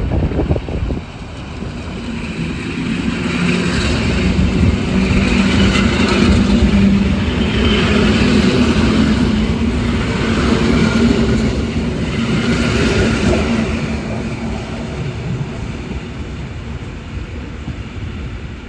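EN71 electric multiple unit pulling out and passing: traction motors humming steadily and wheels running on the rails. The sound grows louder to a peak midway, then fades away.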